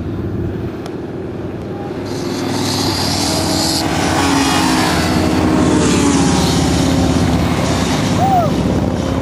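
Motorcycle engines running, growing steadily louder over a few seconds, with a band of hiss that cuts off suddenly partway through.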